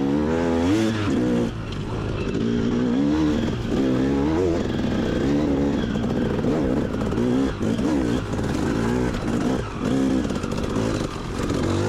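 Trail motorbike engine revving up and down while being ridden, its pitch rising and falling every second or so.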